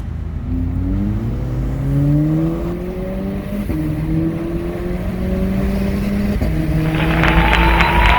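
Car engine accelerating hard through the gears: its pitch climbs, drops sharply at upshifts about three and a half and six and a half seconds in, and climbs again. Near the end a louder, harsher noise with rising whistles comes in over it.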